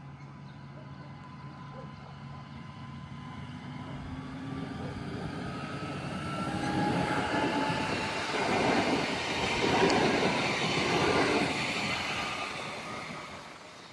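Regional passenger train passing by: it builds up steadily, is loudest for a few seconds past the middle, then fades away near the end.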